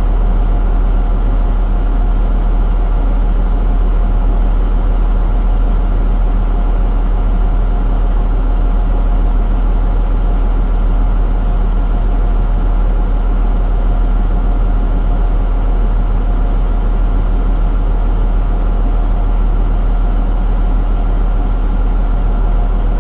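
Heavy engine, likely a truck's, running steadily at idle: a loud, unchanging deep drone with a steady hum above it.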